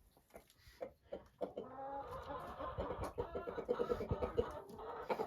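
Chickens clucking, several birds at once, the calls getting busier after about a second and a half with quick repeated notes. A few light knocks in the first second or so.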